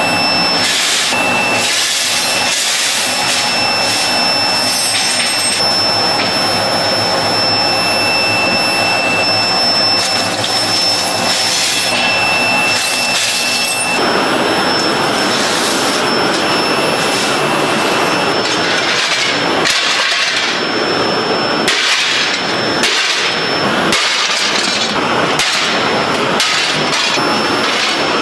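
Workshop machinery running loudly and steadily with a thin high whine. About halfway through the sound changes, and a run of short sharp hits or bursts follows.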